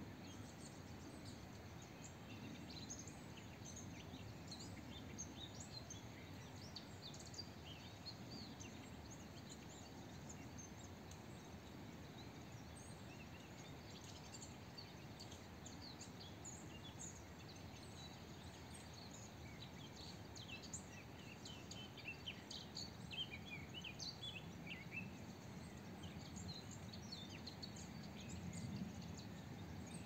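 Several small birds chirping and twittering in short, quick high calls, faint over a steady low background rumble; the calls come thicker in the last third.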